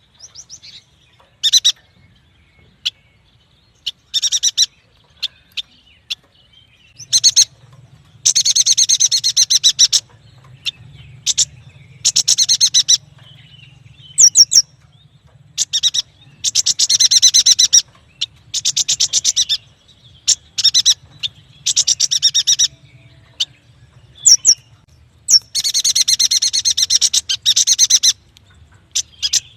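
A yuhina singing in repeated bouts of fast, high chattering trills, each lasting a second or two, with short sharp chips between the bouts.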